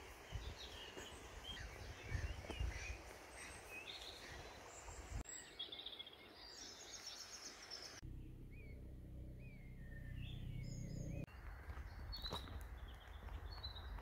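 Several birds chirping and singing in short phrases over faint outdoor ambience, with a gusty low rumble of wind on the microphone during the first few seconds. About eight seconds in, a low steady hum comes in for about three seconds and cuts off suddenly.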